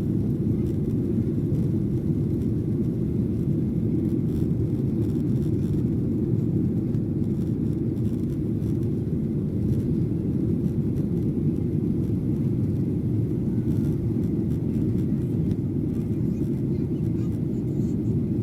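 Steady cabin noise inside a Boeing 737-800 in flight: its CFM56 engines and the airflow over the fuselage, heard as an even low rumble that does not change.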